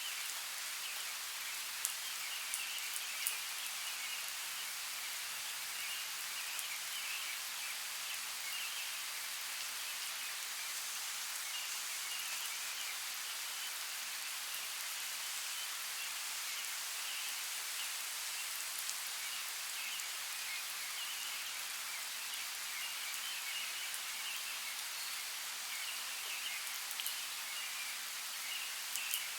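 Steady rain falling, an even hiss with scattered light drop ticks, and a faint warbling chirr coming and going beneath it.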